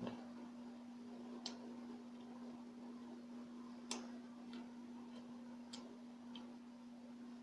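Faint eating sounds: a few irregular, sticky mouth clicks while chewing soft kakanin rice cakes, over a steady low hum.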